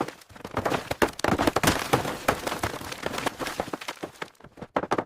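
A dense, irregular run of sharp knocks, taps and clatter, many small impacts close together with a hissy noise between them.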